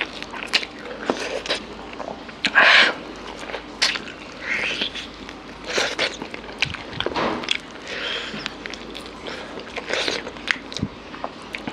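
Close-miked eating of mutton curry by hand: wet chewing, lip smacks and sucking at meat on the bone, in irregular bursts.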